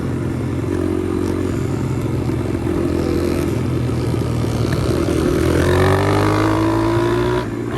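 Pit bike's single-cylinder four-stroke engine running while riding, its pitch climbing steadily through the second half as it accelerates, then dropping off sharply near the end.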